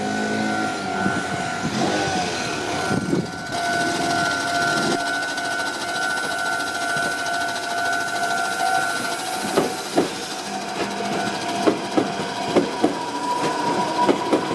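Level crossing with a Meitetsu Seto Line train passing: a steady warning tone sounds until about nine seconds in, then stops. Sharp irregular clacks of train wheels over rail joints follow.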